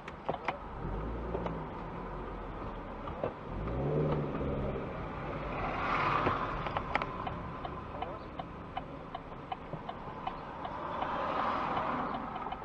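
Road traffic: a vehicle engine revs low twice early on, then vehicles pass with swells of noise about six seconds in and near the end, over a steady ticking about twice a second.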